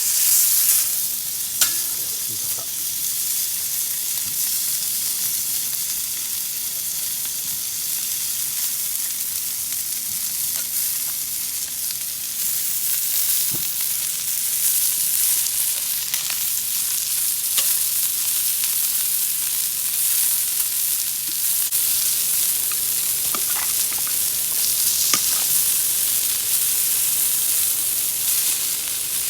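Food sizzling as it fries in a pan, a steady hiss with scattered small pops and crackles.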